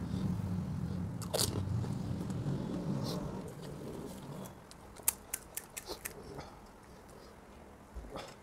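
A person eating crisp pani puri: muffled chewing for the first few seconds, then a quick run of sharp, crisp cracks about five seconds in as the hollow fried puri shells break.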